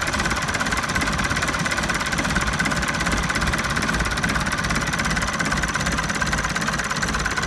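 Nuffield tractor engine idling steadily, with an even, fast beat.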